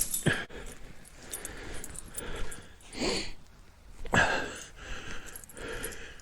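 Footsteps trudging through deep snow: a few separate crunching steps, the loudest about three and four seconds in.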